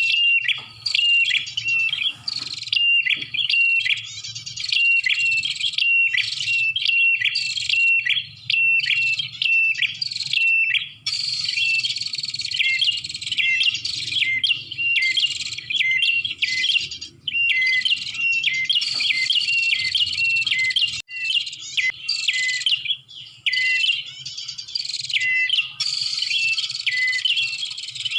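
Prinia (prenjak) calling, a fast run of short, sharp, high chirps several times a second with brief gaps, as played in a lure recording for trapping prenjak.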